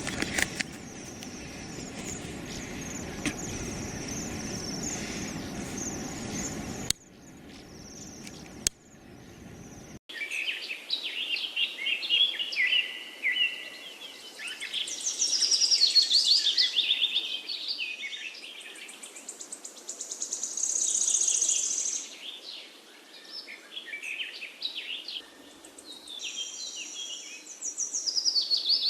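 Outdoor ambience: a steady low rumbling noise with a thin high hiss above it, which drops away abruptly about seven seconds in. From about ten seconds in, many small birds chirp and twitter in quick overlapping calls, some rising and falling in pitch.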